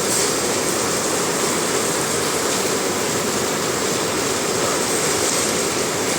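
Heavy rain pouring down steadily, an even rushing hiss of water with no breaks.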